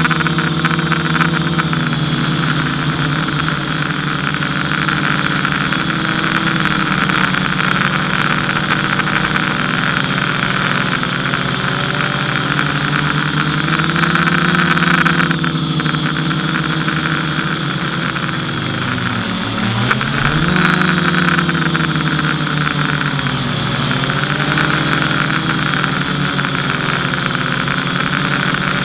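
FPV quadcopter motors and propellers running as a continuous whine whose pitch rises and falls with the throttle. About two-thirds of the way in, the pitch drops sharply and then climbs back.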